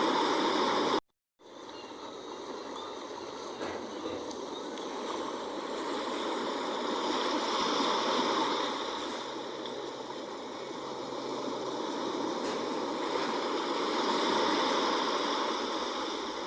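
Sea waves washing on a shore, a steady rushing wash that swells and eases twice. About a second in, the sound cuts out completely for half a second, then resumes quieter.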